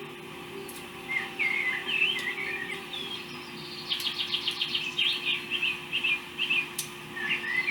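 A small bird singing: quick chirps and warbling phrases starting about a second in, with a rapid run of repeated notes about four seconds in, over a steady low hum.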